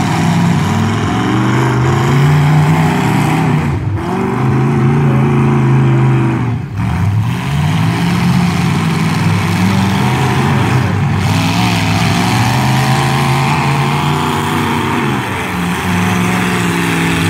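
Demolition-derby truck engines revving hard, the pitch climbing and dropping again and again as the trucks drive and ram. The sound briefly dips twice.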